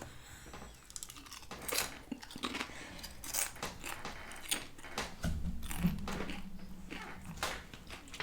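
Close-up crunching and chewing of crisp fried tortillas, in irregular crackling bites. A low steady hum comes in for about two seconds past the middle.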